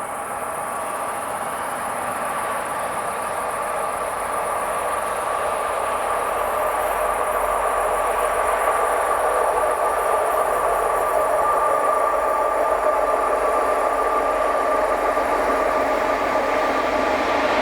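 A train approaching on the line: a steady hum with held tones that grows gradually louder as it nears.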